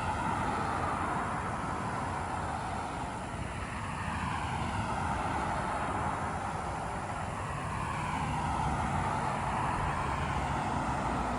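Steady road traffic noise, the sound of cars swelling and fading as they pass.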